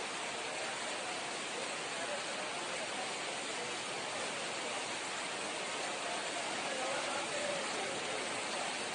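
Steady hiss of rain falling, with faint voices in the distance.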